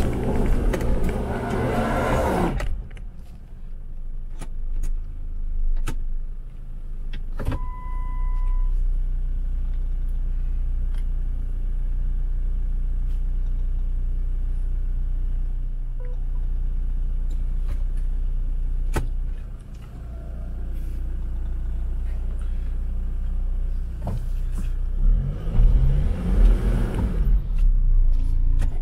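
Jeep Wrangler driving slowly on a snowy off-road track: a steady low engine drone throughout, with a rush of noise at the start. A short beep comes about eight seconds in, and near the end the engine revs up with a rising note.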